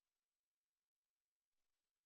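Near silence: the soundtrack is empty after the closing piano music has faded out.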